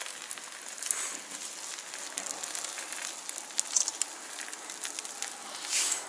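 Barbecue grill crackling and sizzling: a steady hiss scattered with sharp pops and crackles, a few louder ones about three and a half seconds in.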